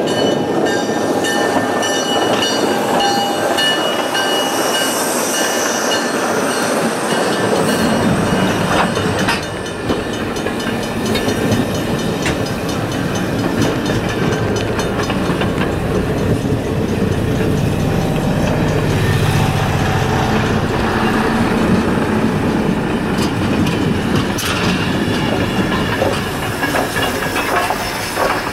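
A passenger train's horn sounding several held tones as it approaches, fading over the first few seconds; then from about eight seconds in the train rolls past, its coach wheels rumbling and clattering over the rail joints in a steady run.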